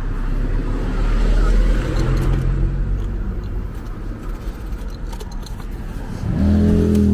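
Low, steady rumble of a running motor vehicle with road noise; a steadier engine hum comes in about six seconds in.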